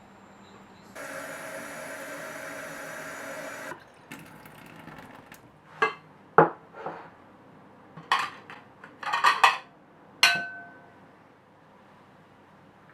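Kitchen tap running for about three seconds, then a series of knocks and clinks of dishes and utensils. The last clink, about ten seconds in, rings briefly.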